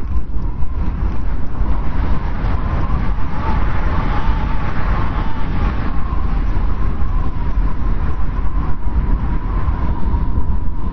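Blizzard wind blowing steadily, with a deep rumble and a thin whistle that wavers slightly in pitch.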